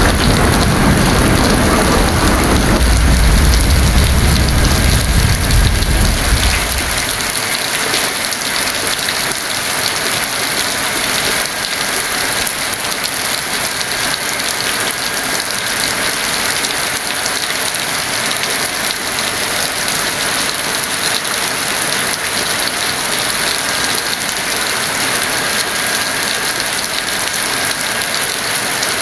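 Heavy rain falling steadily, with a low rumble of thunder that dies away about six or seven seconds in.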